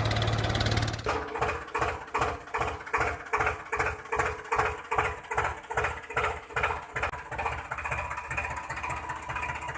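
Tractor engine sound effect running: a steady hum that changes abruptly about a second in to an even, slower chugging of about two to three beats a second, which evens out near the end.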